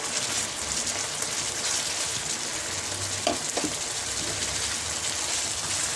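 Chicken pieces frying in hot ghee in a kadai on a high flame, sizzling steadily while being stirred and mixed with a spatula.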